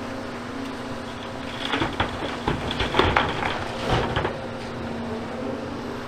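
Volvo hydraulic excavator's diesel engine running steadily, with a burst of crashing and clattering demolition rubble starting about a second and a half in and lasting about three seconds.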